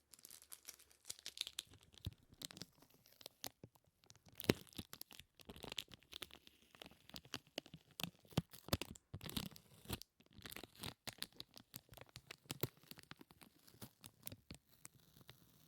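Sticky ASMR trigger sounds close to the microphone: a dense, irregular run of crackling, peeling clicks, with short pauses about three and a half and ten seconds in.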